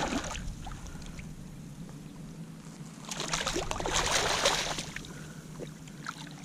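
Water splashing and trickling at the side of a kayak, swelling for a couple of seconds about halfway through, with a few small knocks.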